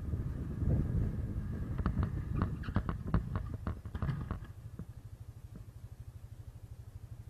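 Vehicle running with a low engine and road rumble, broken by a quick flurry of sharp clicks and knocks from about two seconds in to four and a half. After that it settles into a steady, rapid low throb.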